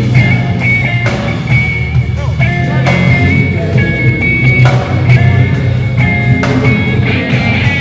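A live band playing a song with drums and guitar, loud and steady, during a sound check.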